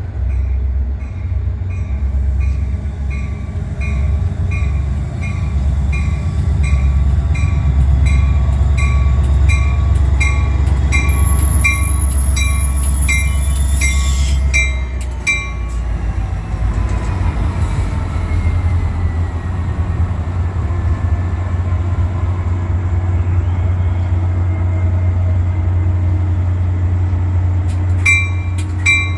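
ACE commuter train's diesel locomotive rumbling steadily as it pulls in. A bell rings about twice a second, stops about halfway, and starts again near the end. A brief high-pitched squeal comes about halfway through.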